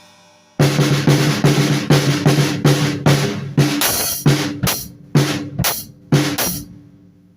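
A drum kit played freely: after a brief pause, a quick run of hits on the drums, then slower single strokes with short gaps between them, stopping again near the end.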